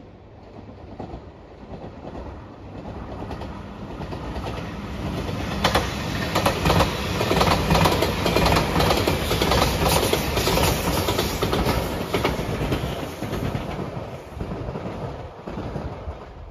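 JR 8600 series electric train passing: it grows louder as it approaches, its wheels clatter over the rail joints loudest about six to twelve seconds in, then it fades as it moves away.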